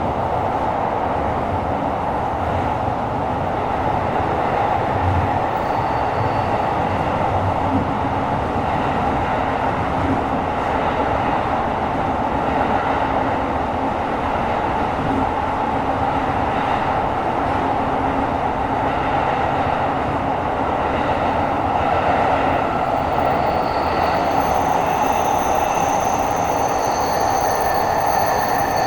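Running noise inside a Tokyo Metro 17000 series subway car: a steady loud rumble of wheels and motors in the tunnel. Near the end, thin high-pitched wheel squeal comes in.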